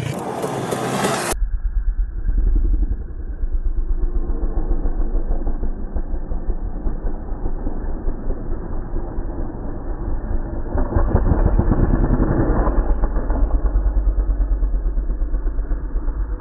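Motocross motorcycle engines revving, then after an abrupt cut about a second in, a muffled, pulsing low engine rumble that grows louder about two-thirds of the way through.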